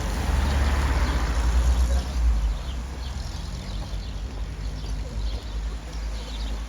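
A motor vehicle passing on the road, its low rumble and tyre noise loudest in the first two and a half seconds, then fading to a lower engine hum.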